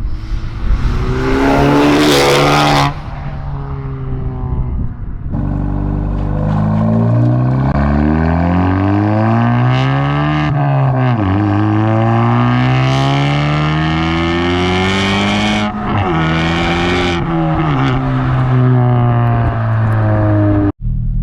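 Honda Civic Type R FK2's turbocharged 2.0-litre four-cylinder, breathing through a Milltek cat-back exhaust, pulling hard with the engine note climbing steadily. It drops sharply at upshifts about ten and sixteen seconds in, then climbs again each time.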